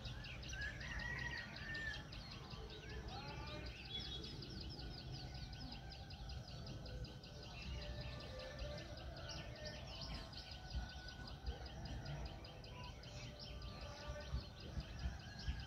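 Birds chirping and calling, with a quick, evenly repeated high chirping over a steady low rumble.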